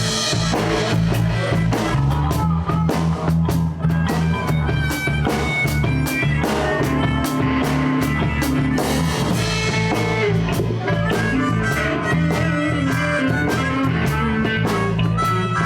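Live blues band playing an instrumental intro in A: electric guitar, bass and drum kit with blues harmonica.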